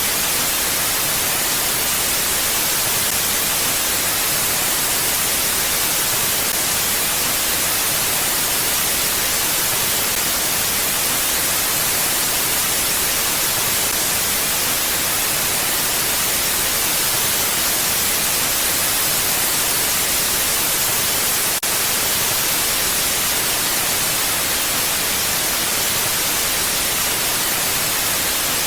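Steady, even hiss of wind ambience, strongest in the treble, with no gusts or swells.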